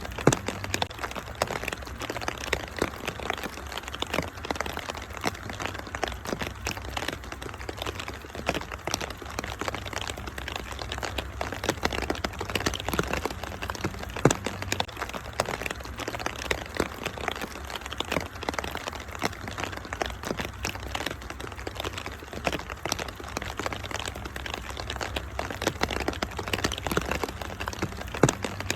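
Wood fire crackling in a fireplace, with many small irregular pops, a louder pop about a third of a second in and another about halfway through, over a steady hiss of rain and a low rumble.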